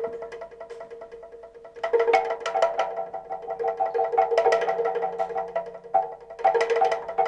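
Music played on reconstructed Paleolithic instruments: a steady held tone under a rapid patter of struck notes. The strikes are sparse at first and grow dense about two seconds in, with a brief break near the end.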